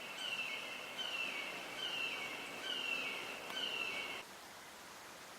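A bird calling over and over: a series of short, slightly falling whistled notes, a little under one a second, stopping about four seconds in.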